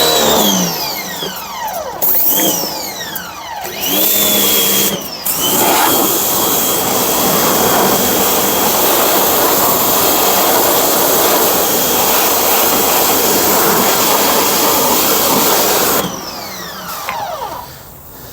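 Small pressure washer's motor and pump spinning up and down several times as the trigger is squeezed and let go. It then runs steadily, spraying, for about ten seconds and cuts off near the end.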